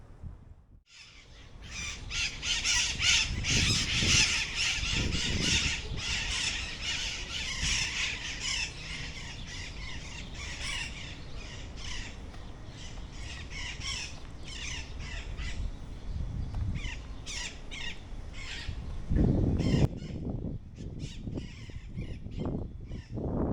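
A flock of birds squawking and chattering, with many harsh calls overlapping. It starts suddenly about a second in and thins out near the end, over low gusts of wind on the microphone.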